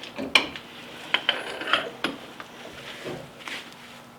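Scattered light metallic clicks and clinks of hand tools working on a brake caliper's hex-head bolts.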